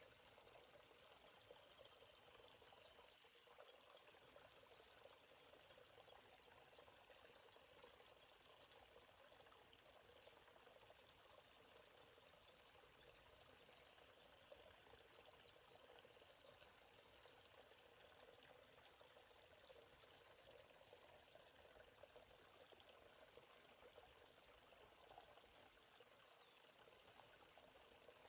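A steady high-pitched drone of a chorus of insects, over a faint, even trickle of a forest stream.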